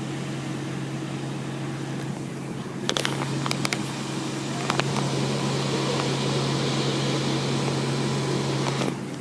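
Car wash machinery running: a steady motor hum with a broad hiss over it, a few clicks about three seconds in, then louder until it drops off just before the end.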